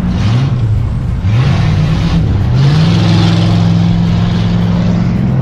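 A car engine revving, its pitch climbing in three short rises before holding steady.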